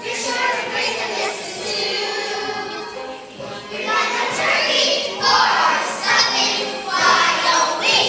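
Children's choir singing a show tune with musical accompaniment; the voices grow louder about four seconds in.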